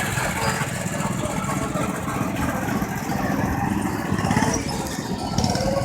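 Go-kart engines running steadily as karts circle the track.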